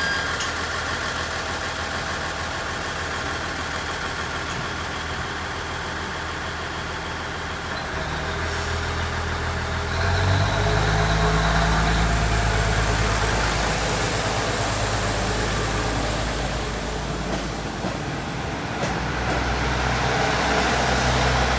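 Diesel railcar engine heard from inside the passenger cabin, running under a steady rumble. About eight and again ten seconds in, the engine note deepens and grows louder as more power is taken.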